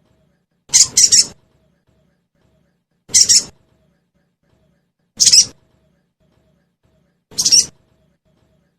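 Sogon bird giving short, sharp, high-pitched chirping calls, four in all about two seconds apart, the first one doubled.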